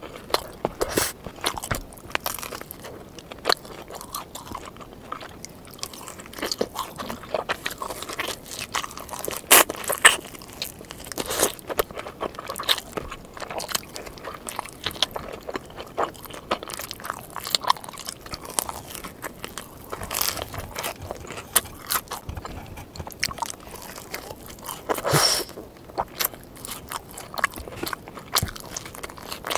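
Close-miked chewing and crunching of pepperoni pizza: many irregular crisp crunches and wet mouth sounds, with no steady rhythm.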